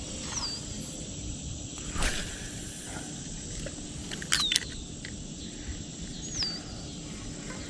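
Outdoor ambience: a steady insect drone, a bird giving a short falling whistle several times, and a few sharp clicks about two and four and a half seconds in.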